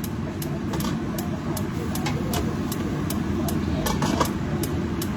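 Steady low machine rumble from kitchen equipment, with faint regular ticks about three times a second.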